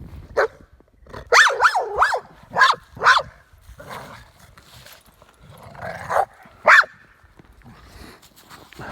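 American Staffordshire Terrier barking while playing: a quick run of sharp barks in the first few seconds, a pause, then one more bark near the end.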